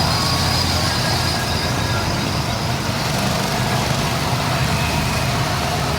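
Go-kart engines running at a kart track: a steady mechanical drone with a constant low hum.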